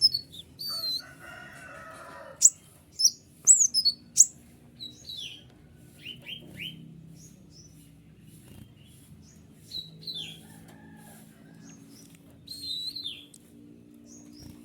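Common iora (konin) singing: sharp, quick high whistles that slide up and down, loudest and thickest in the first few seconds, mixed with scratchy chattering passages near the start and again about ten and thirteen seconds in.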